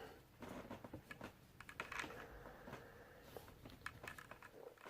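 Faint clicking and tapping of hard plastic as a Transformers Titans Return Misfire figure's small guns are handled and pegged into the side of its jet mode.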